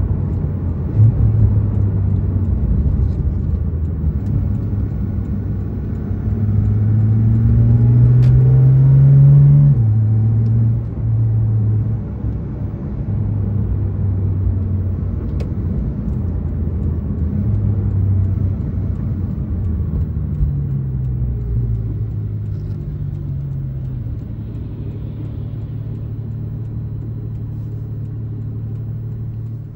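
Porsche 911 GT3 RS (991.2) naturally aspirated 4.0-litre flat-six heard from inside the cabin while driving. The revs climb for a few seconds, then drop sharply in an upshift. The engine settles to a steady low drone, rises once more briefly, and quietens as the car slows.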